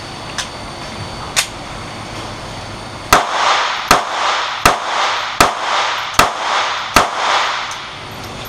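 Glock 42 .380 pistol firing 85-grain Extreme Penetrator rounds: six sharp shots in steady succession, about three-quarters of a second apart, each with a short echo. The even pace shows each round feeding and firing without a stoppage. Two small clicks come in the first second or so, before the shooting.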